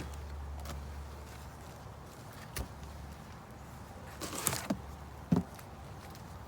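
Metal hive tool prying at a wooden beehive, with a few sharp knocks and cracks as propolis-sealed hive parts break free; the loudest crack comes a little past the middle.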